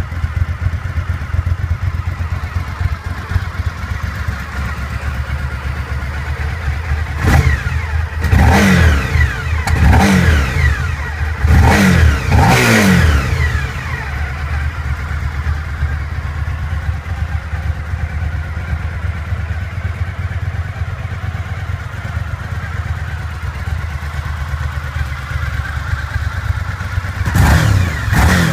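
2005 Suzuki SV1000S's 90-degree V-twin idling, with a run of five quick throttle blips a quarter to halfway in and one more near the end, each rev dropping straight back to idle.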